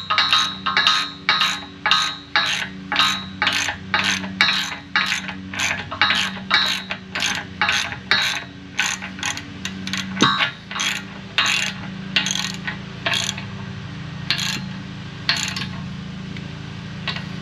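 Hand ratchet wrench clicking as bolts are tightened, about two to three clicks a second, the strokes growing fewer and further apart in the last several seconds.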